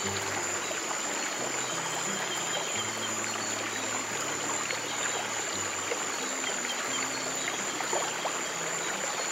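Water flowing steadily, like a stream trickling over stones, with soft low sustained notes of relaxation music changing every second or two underneath and a thin steady high tone above.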